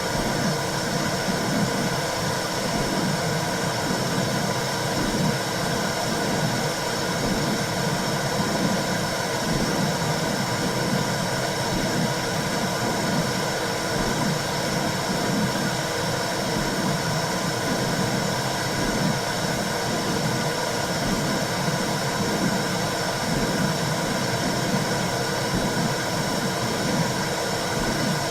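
Womb sound made to soothe a baby: a steady whooshing noise with a low rumble that flickers unevenly, at an even level throughout.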